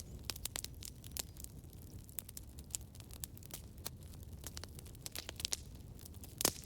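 Campfire burning, wood crackling with frequent irregular sharp pops over a low rumble of flame; one louder pop about six and a half seconds in.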